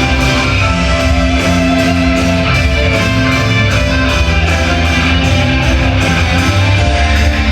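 Live rock band playing loud at a stadium concert: guitars over a steady drum beat.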